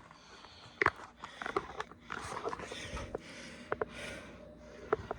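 Handling noises: several sharp clicks and knocks, with soft rustling between them, as objects are handled and set down.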